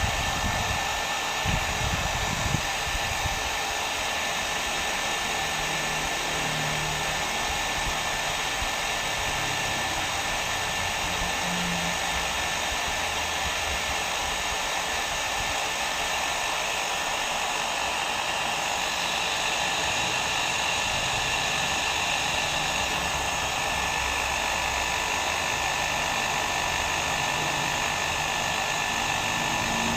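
Hair dryer running steadily: an even rush of blown air with a steady motor whine, used as continuous white noise.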